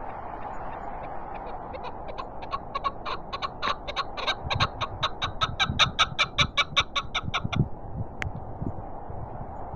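Chukar partridge giving its rallying call: a rapid run of short clucking notes, about five a second, building louder for several seconds and then stopping abruptly. Steady wind noise runs underneath.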